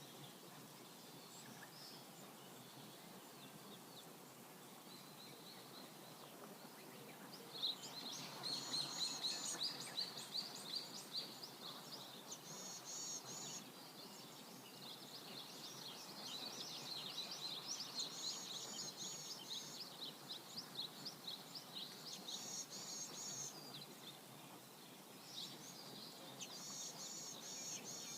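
Birds chirping and singing over the faint steady rush of a river. The birdsong picks up about a quarter of the way in, with short trilled phrases repeating every few seconds.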